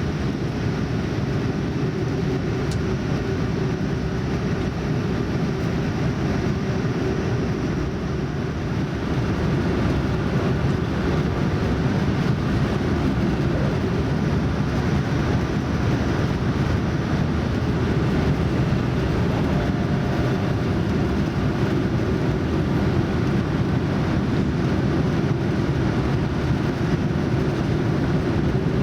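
Steady cabin noise of a Boeing 787-9 airliner on approach, a mix of airflow and engine hum heard from a window seat inside the cabin. It grows a little louder about ten seconds in.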